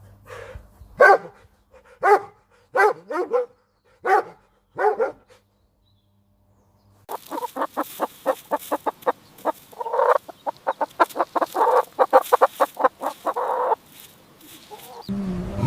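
Domestic poultry calling: about six separate short calls, a short pause, then a long, fast run of repeated calls.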